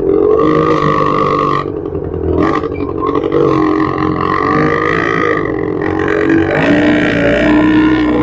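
Yamaha R25 parallel-twin engine and exhaust running under way, the engine note wavering up and down with the throttle. It eases off briefly about two seconds in and settles to a lower, steadier note about seven seconds in.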